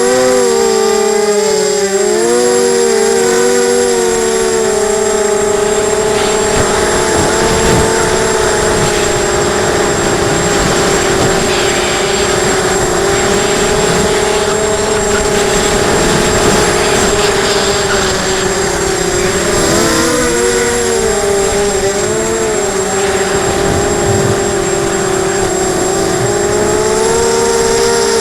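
Emax 250 racing quadcopter's motors and propellers whining steadily, the pitch wavering up and down as the throttle changes near the start and again about two-thirds of the way through, with wind buffeting the microphone.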